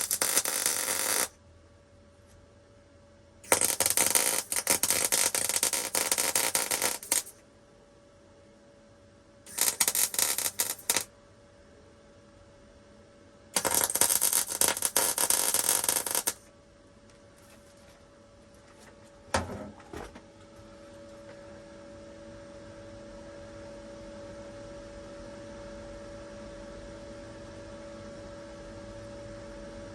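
Wire-feed welder running .025 wire, laying short welds on thin sheet-metal floorpan patches: four bursts of arc crackle, one to four seconds each, with pauses between. Then a short knock, and a steady hum takes over.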